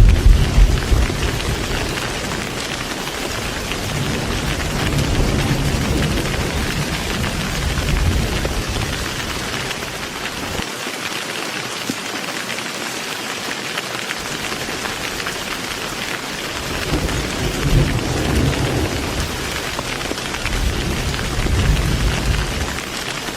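Heavy rain falling in a steady hiss, with thunder rumbling deep and low underneath. A loud roll dies away right at the start, the thunder swells again twice, and it drops out for a few seconds in the middle.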